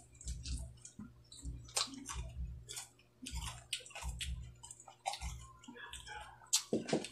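Close-up chewing and crunching of dried fish and raw cucumber: irregular crisp crunches with soft low thuds between them. A short, louder and lower sound comes near the end.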